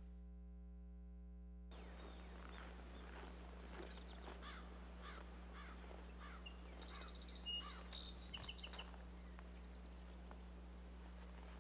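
Faint outdoor ambience over a low steady hum, with small birds chirping: a run of short repeated chirps, then brighter, higher calls about six to nine seconds in.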